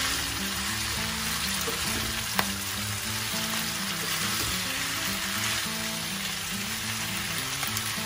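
Stir-fried pasta and vegetables sizzling steadily in a non-stick frying pan as they are tossed with a spatula, with one sharp clink of a utensil against the pan about two and a half seconds in. Background music plays underneath.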